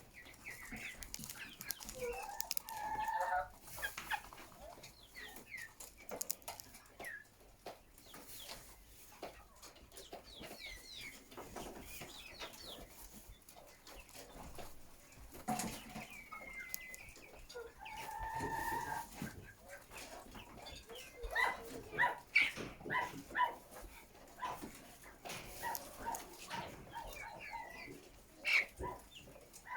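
A flock of chickens clucking, many short calls overlapping, with scattered clicks and knocks.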